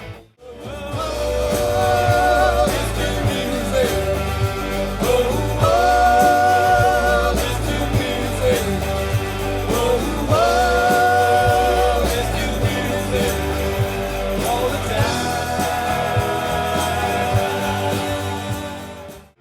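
Classic rock cover band playing live: bass and drums under a melody of long held notes that slide in and out. The sound drops out briefly just after the start and again at the very end, where one clip cuts to the next.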